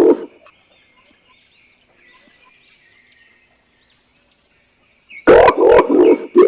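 Green imperial pigeon calling, a series of deep, rapid hooting notes at about three a second. The series ends just after the start and starts again about five seconds in. In the pause, only faint high chirps of small birds are heard.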